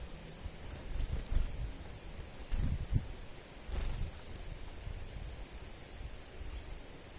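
A small bird giving short, very high-pitched calls that slide downward, repeated roughly once a second. Under the calls is an uneven low rumble that swells briefly a few times.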